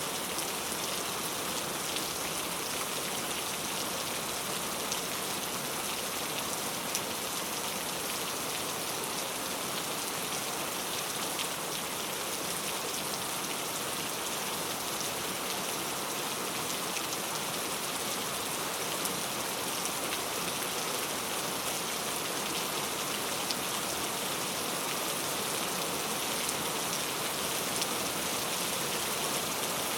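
Heavy rain pattering steadily on mango leaves, a dense even hiss with scattered drop ticks.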